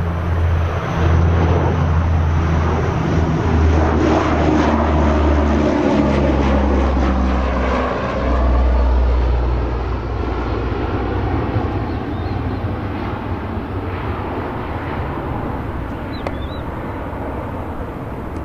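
Propeller aircraft engines running loud with a deep drone, the low tones shifting in steps, then fading gradually over the second half.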